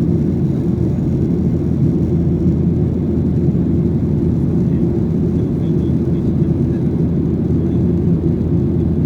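Steady low roar inside the cabin of a Boeing 737-800: the CFM56-7B jet engines and the airflow around the fuselage running without change.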